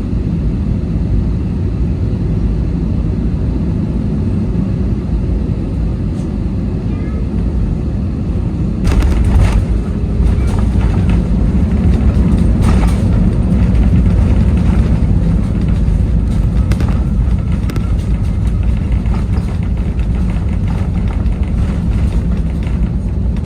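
Airliner cabin noise during landing: a steady low rumble that becomes louder and rougher about nine seconds in, with rattling crackles.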